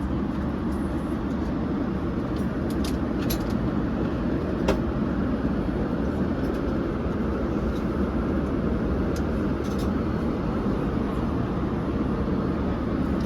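Steady low rumbling cabin noise of a Boeing 787 airliner on the move, with a few faint clicks.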